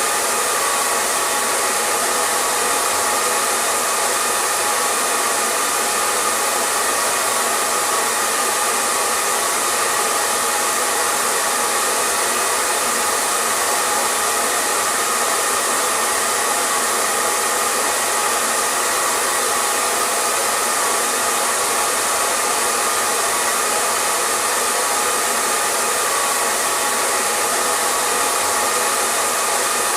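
Hair dryer running steadily: an even rush of blown air with a faint whine from the motor.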